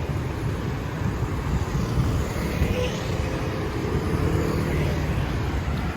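Steady rumble of passing road traffic, engines and tyres, with a faint engine whine rising and falling about halfway through.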